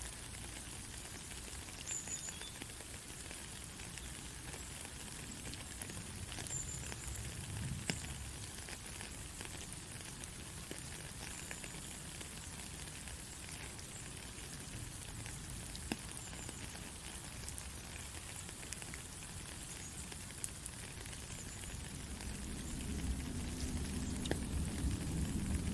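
Steady heavy rain, an even hiss with scattered sharp drop ticks. A low rumble of thunder swells briefly about a third of the way in and builds again near the end.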